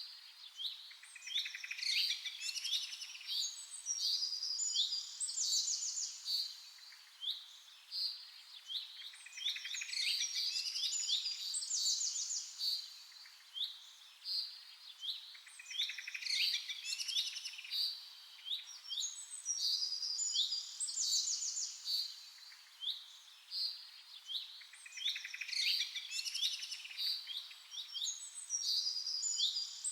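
Several birds chirping and singing in quick, high-pitched calls and short trills. The same passage of song repeats about every seven and a half seconds, as a looped recording.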